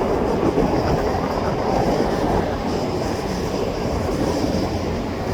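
Steady low rumble of moving vehicles, an even noise without distinct knocks, tones or horns.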